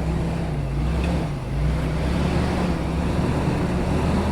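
A vehicle engine running steadily under light throttle, its pitch rising and falling slightly.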